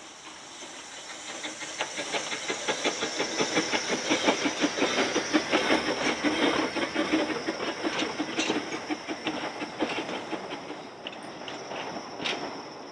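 Narrow-gauge train's coaches rolling past, wheels clicking rapidly on the rails, growing louder to a peak midway and then fading away. A steady high hiss runs underneath.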